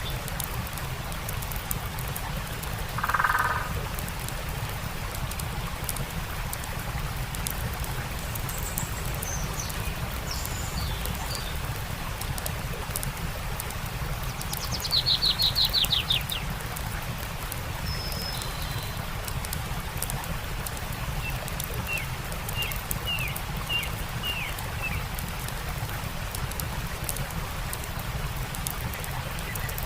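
Stream running steadily under a crackling campfire, with birds calling over it. The calls include a short burst about three seconds in, a loud rapid trill about halfway through, and a run of short repeated chirps near the end.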